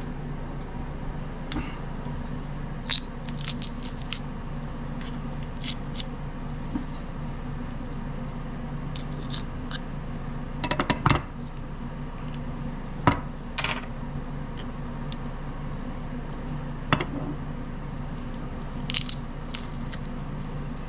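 Metal garlic press clacking and clinking as garlic cloves are squeezed into a bowl of mayonnaise, with scattered clicks and scrapes; the loudest cluster comes about eleven seconds in. A steady low hum runs underneath.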